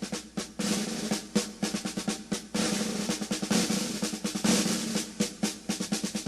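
Fast, irregular clattering hits over a steady low hum, like a rapid drum roll or machinery clatter.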